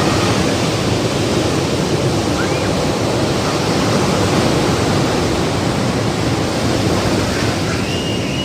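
Ocean surf: waves breaking and washing up the beach in a steady, continuous rush. A few faint high chirps sound over it, one about two and a half seconds in and a longer one near the end.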